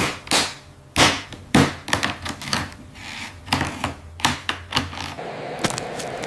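Irregular series of sharp taps and knocks from small hand tools working on the track, over a low steady hum that stops about five seconds in.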